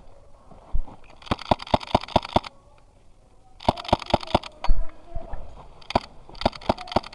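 Airsoft gun firing three bursts of rapid shots, each burst a quick run of sharp cracks at about seven a second over a hiss, with a few single knocks between the bursts.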